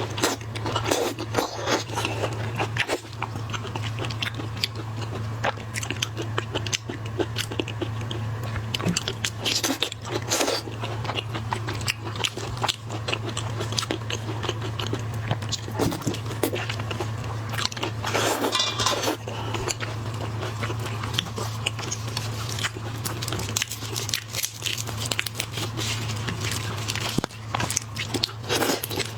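Close-miked eating of seafood: irregular biting, crunching and wet chewing, with many small clicks and crackles, over a steady low hum.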